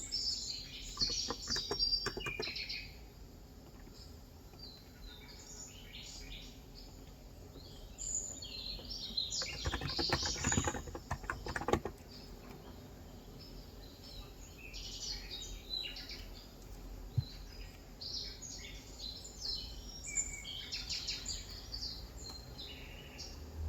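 Small birds chirping and tweeting throughout. Two short runs of typing on an electrostatic capacitive (Topre-style) keyboard are heard, one near the start and one about ten seconds in.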